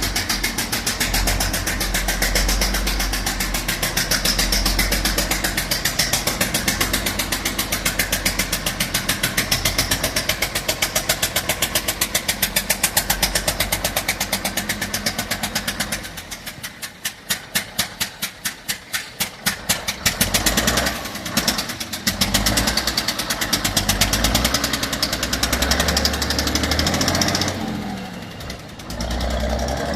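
Scania L71 Regent's diesel engine running rough with a rapid pulsing beat. About 16 s in it drops to a slow, lumpy idle with each firing pulse heard separately, picks up again around 20 s, and dips briefly near the end. The rough sound comes from a blown head gasket on cylinder one.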